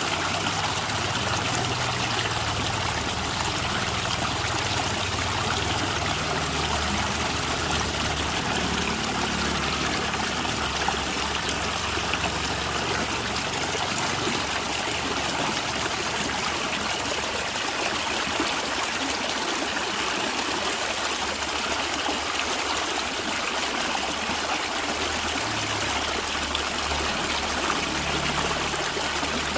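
Natural running water gurgling and trickling, steady throughout.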